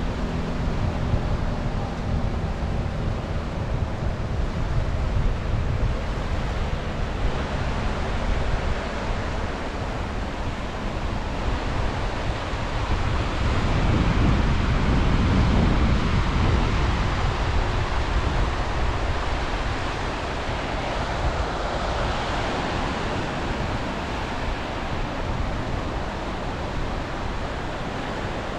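Sea waves washing onto the shore, with wind rumbling on the microphone. The wash swells louder about halfway through, then eases.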